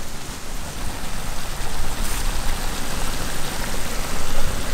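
A beef leg frying in thick gravy in a large kadai over a wood fire, a steady sizzle with a low rumble underneath.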